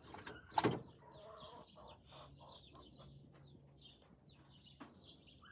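Birds chirping in the background, a long run of short high chirps, with one sharp click a little over half a second in.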